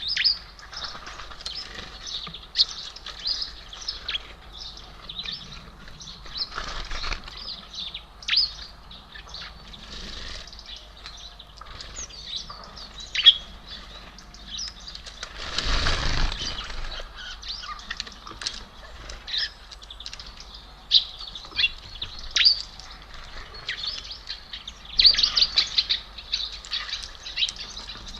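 Small songbirds at a feeder: many short, high chirps and calls throughout, with a few brief rushes of fluttering wings as birds fly in and out, the loudest about halfway through.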